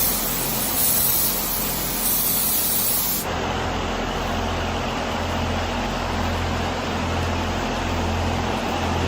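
Paint spray gun spraying with a steady, loud hiss. About three seconds in, the sound changes abruptly to a duller steady rush over a low hum.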